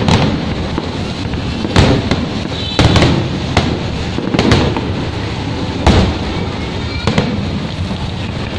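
Fireworks shells bursting in the sky, about nine sharp bangs spaced irregularly, some in quick pairs. Under them runs a steady hiss of rain.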